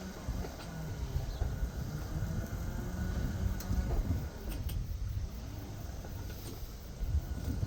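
Road traffic: cars passing by, their noise swelling and fading, over a steady low rumble.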